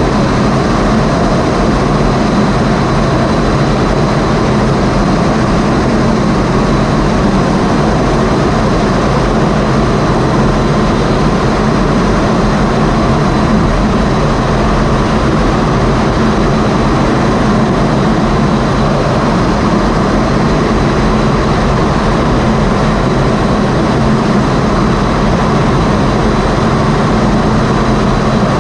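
Jet aircraft engines running at a steady, loud level, a constant roar with a thin high whine over it.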